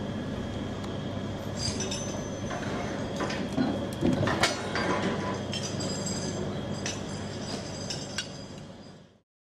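Steel wheels of a rail vehicle rolling slowly on track, with a steady low rumble, high-pitched squeals from about a second and a half in, and a cluster of metallic clanks around the middle. The sound fades out near the end.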